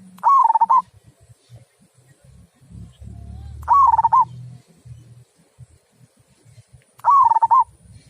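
Zebra dove (perkutut) cooing: three short calls, each under a second long, spaced about three and a half seconds apart.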